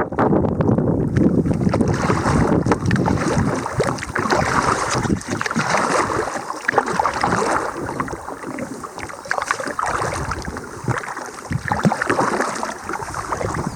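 Wind buffeting the microphone while a kayak is paddled across choppy water, with irregular splashing of paddle strokes and water against the hull.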